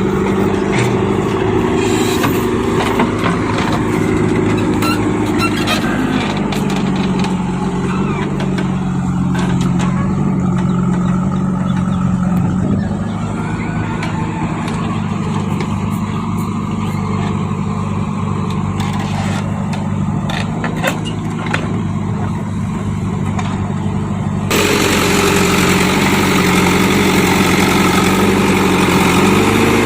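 Heavy diesel engine running steadily, its pitch shifting a few times, with scattered knocks and clanks over it; the sound changes abruptly about 25 seconds in.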